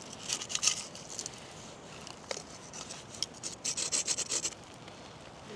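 Crisp toasted bread of a pizza pudgy pie crunching and rasping, in two bouts of quick scratchy crackles: one in the first second and one around four seconds in.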